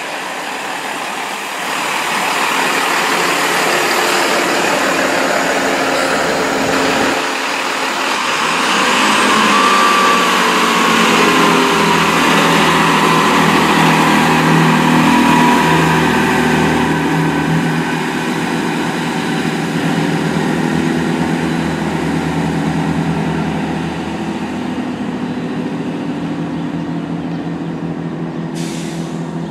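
A GWR passenger train passing through at speed, a long loud rush of wheels on rail that slowly fades as it draws away, with diesel engine hum running under it from about a third of the way in as a GWR Turbo diesel multiple unit moves on the other line. A brief hiss near the end.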